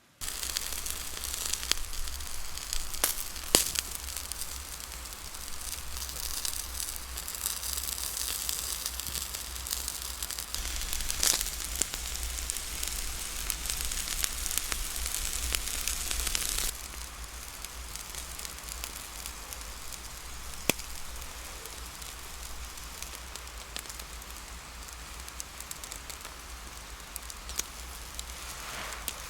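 Wood campfire crackling, with scattered sharp pops over a steady hiss; the hiss drops suddenly a little past halfway.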